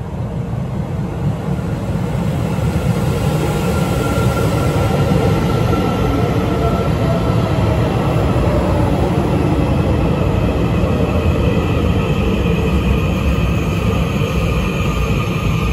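Taiwan Railways EMU800 electric multiple unit pulling into a station platform, a steady rumble of wheels on rails with a whine that falls in pitch partway through as it slows.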